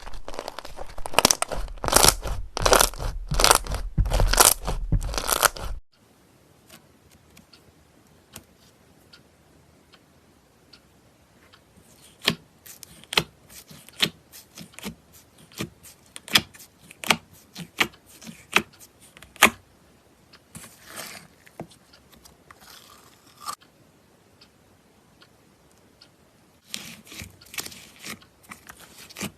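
Slime being squeezed and pressed by hand, making crunchy crackling. A loud run of repeated crunchy squeezes cuts off sharply about six seconds in. Sparse sharp clicks and pops follow, with two short soft hissing stretches, and crackling comes back near the end.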